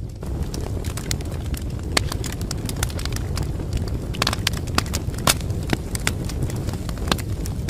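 Wood fire crackling: a steady low rumble of flames with irregular sharp pops and snaps, a few louder pops scattered through.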